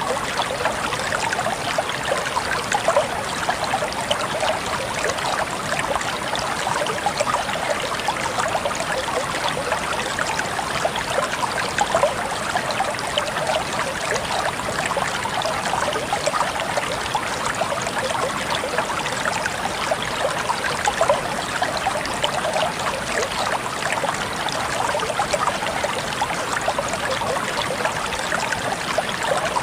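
Water flowing steadily in a stream, an even rush with fine splashing and trickling detail.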